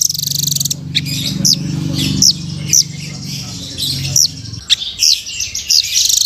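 Velvet-fronted nuthatch (rambatan) calling: a string of sharp, high chirps that slide downward, with a fast rattling trill at the start.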